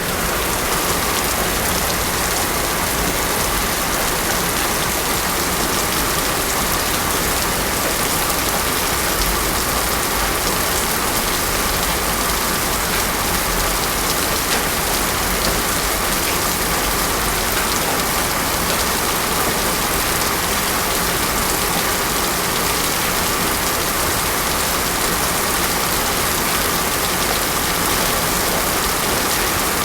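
Heavy rain falling steadily on a paved road, with no thunder.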